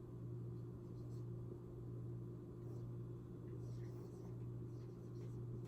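Steady low electrical hum, with a few faint, brief scratchy sounds in the second half.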